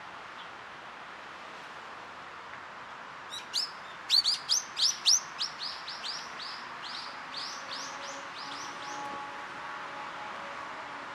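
A small bird calling a rapid run of about twenty short, downward-sweeping notes, loudest near the start and slowing and fading away over about five seconds, over a steady background hiss.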